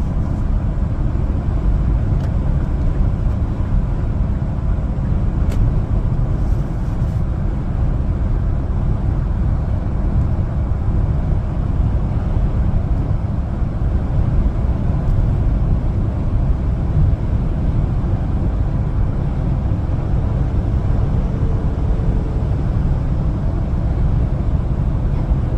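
1-ton LPG cargo truck on the move: steady engine and road noise, a continuous low rumble.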